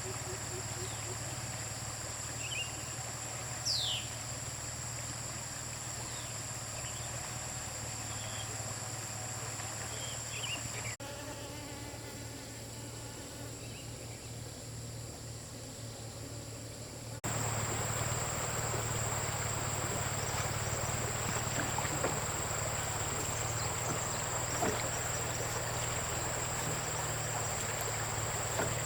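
Steady high-pitched insect drone, with a few short bird chirps in the first part. The sound changes abruptly twice, dropping about a third of the way in and coming back louder past the middle.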